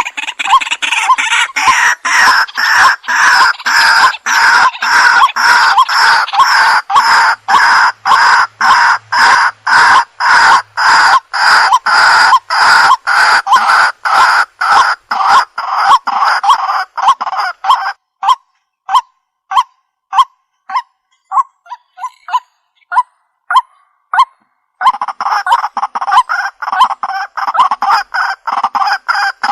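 Waterhen (jal murgi) calling: a rapid run of short repeated notes, about two or three a second. Around eighteen seconds in it thins to spaced single notes, then pauses briefly, and the rapid run starts again near the end.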